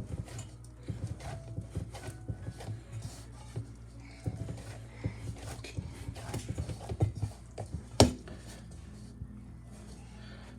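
Hand-kneading of a warm boiling-water flour dough: irregular soft thuds and knocks as the dough is pressed and turned against the bowl or board, with one sharper knock about eight seconds in.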